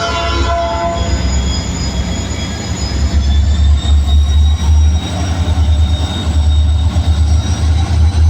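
Freight train hauled by EMD SD40-series diesel locomotives passing: the end of the air horn's chord about a second in, then a heavy low diesel rumble that grows louder from about three seconds in, with a thin high-pitched squeal of wheels on the rails above it.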